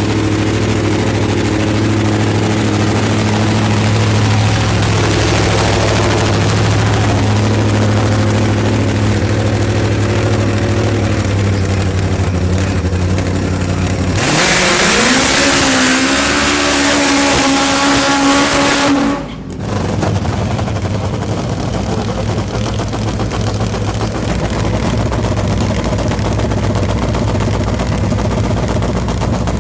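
Supercharged, nitro-burning inline four-cylinder top fuel drag motorcycle engine, 1327 cc: a steady even running note, then about 14 s in a sudden much louder full-throttle run, the pitch climbing for about five seconds before it cuts off abruptly. A steady engine drone follows.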